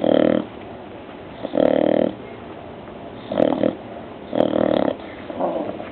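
Bulldog snoring while awake: four loud snores about a second and a half apart, each about half a second long, and a weaker one near the end. This is the snoring breath typical of a flat-faced breed's narrow airway.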